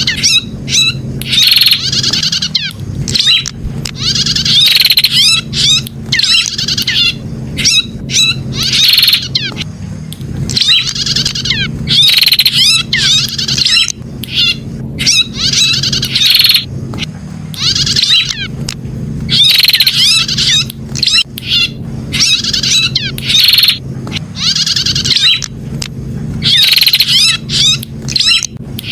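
Prenjak (prinia) song: loud, high-pitched, chattering phrases repeated every second or two, over a steady low hum.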